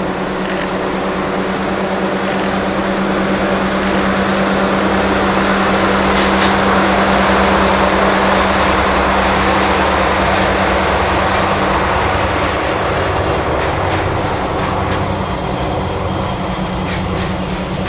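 Freight train hauled by DD51 diesel locomotives passing, a steady diesel engine hum under a broad rolling rumble. The noise swells to its loudest around the middle and eases off toward the end.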